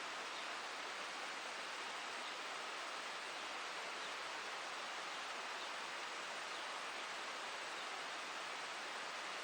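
Steady, even outdoor background noise, a constant hiss with no distinct events.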